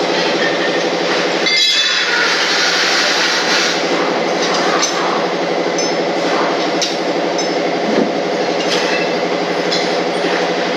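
A steady mechanical drone from a running machine, with light metallic clinks every second or two.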